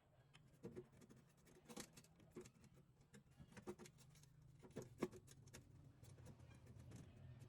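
Near silence: a low steady hum with a scattering of faint light clicks and taps, like small parts and tools being handled on a workbench.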